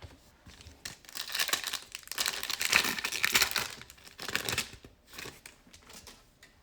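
Plastic wrapper of a Prizm basketball card pack being torn open and crinkled: a few seconds of rustling, crackling noise, loudest in the middle.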